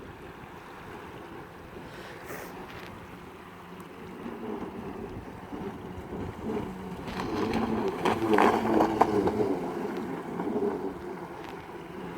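Wind buffeting the microphone over water, with a rougher, louder stretch from about seven to ten seconds in.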